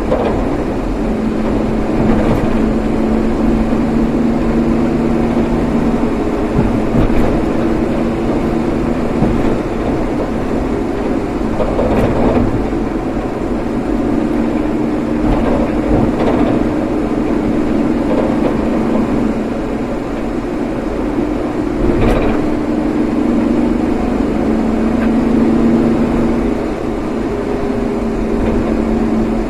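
Vehicle engine hum and road noise while driving, steady with small shifts in engine pitch and a few light clicks.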